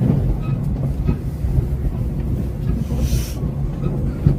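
Steady low rumble of a moving train heard from inside the carriage, with a brief hiss about three seconds in.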